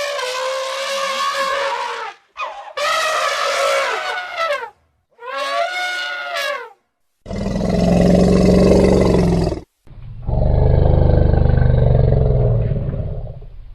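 Elephant trumpeting three times in quick succession, each blast a second and a half to two seconds long, then two long, deep roars, the second lasting about three seconds.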